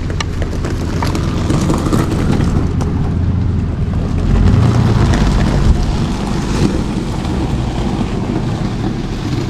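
Tow truck's engine and tyre noise heard from inside the cab while driving slowly, a steady low rumble that swells a little about four and a half seconds in.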